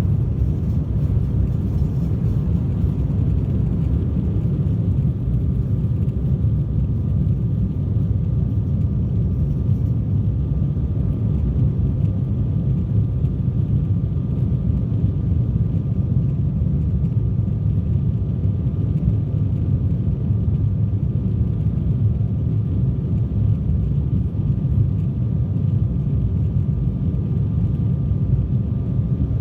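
Embraer jet airliner's engines and airflow, a steady low rumble with a faint steady whine running through it.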